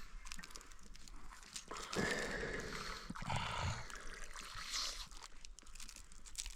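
Close handling noises: rustling and crinkling with scattered small knocks and clicks.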